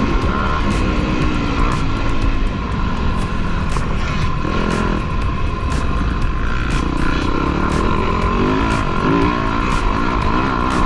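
Motocross dirt bike engine running hard, its pitch rising and falling repeatedly as the rider works the throttle, over a constant low rumble.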